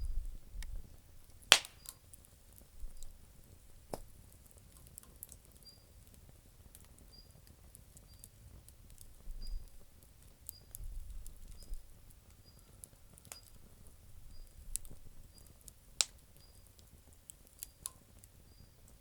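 Campfire of damp firewood crackling, with scattered sharp pops, the loudest about one and a half seconds in. A faint, short, high chirp repeats a little faster than once a second through most of it.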